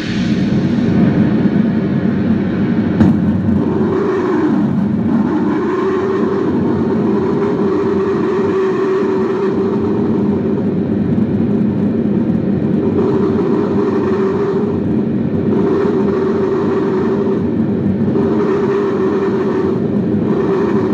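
Synthetic storm noise made with fuzz and reverb effects pedals: a loud, steady, dense wash of noise, with a higher band that swells and fades every few seconds like gusts of wind. A brief click about three seconds in.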